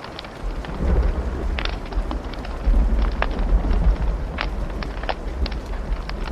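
Wood fire crackling with scattered sharp pops, and a deep rumble of thunder that comes in about half a second in and rolls on, swelling twice.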